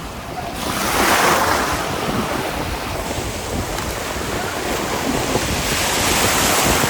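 Sea waves washing in, with wind rumbling on the microphone; one wave surges about a second in and another builds near the end.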